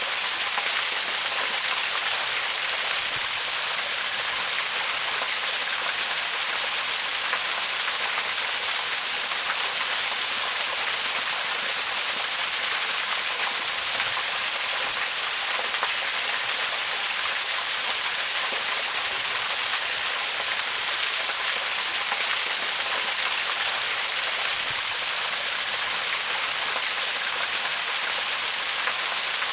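Waterfall: a steady, unbroken rush of falling water, heard mostly as a bright hiss with little deep rumble.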